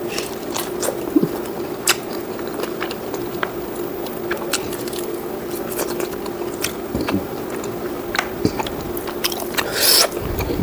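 Close-miked chewing of pork curry with rice: wet mouth clicks and smacks come irregularly over a steady low hum. A louder, noisy sound comes near the end.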